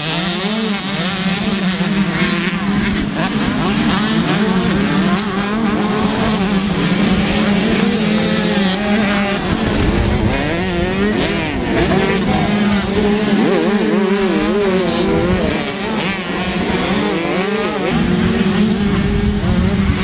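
125cc two-stroke motocross bikes racing, their engines revving up and down continuously as they work through the track.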